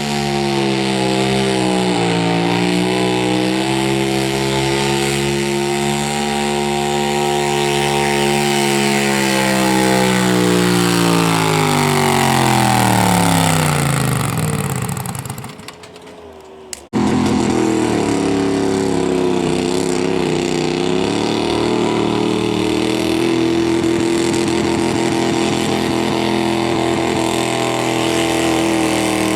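A garden pulling tractor's engine running hard under load. Its pitch sags steadily as it bogs down a little past a third of the way in, then fades out. An engine then cuts back in abruptly, running loud at high revs.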